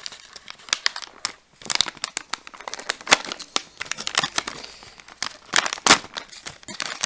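Plastic MRE snack pouch of dried cranberries crinkling and crackling in irregular bursts as it is worked at with a knife, with a brief lull about a second and a half in. The tough pouch is not opening.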